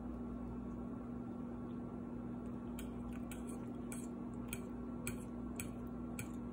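Chewing with faint mouth clicks, about two a second, starting a couple of seconds in, over a steady low hum.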